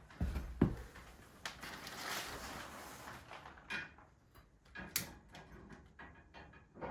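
Handling noises: two knocks near the start, then a rustling hiss lasting about two seconds, then scattered sharp clicks and taps.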